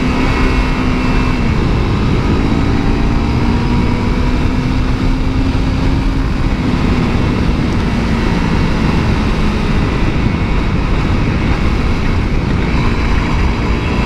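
Honda CRF250L single-cylinder four-stroke engine running at a fairly steady pace while the bike is ridden, with heavy wind rush on the helmet microphone.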